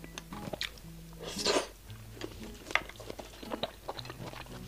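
Close-miked wet chewing and lip smacks of a person eating a salmon-wrapped strawberry, with one longer, louder wet mouth sound about a second and a half in. Soft background music runs underneath.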